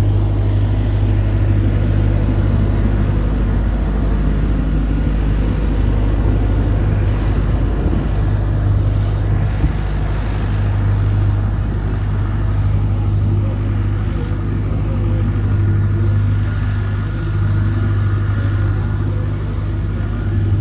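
Engine running at a constant speed: a steady low hum.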